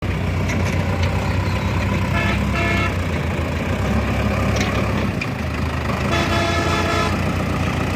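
Tractor engine running steadily, with a vehicle horn giving two short toots a little after two seconds and one longer toot of about a second near the end.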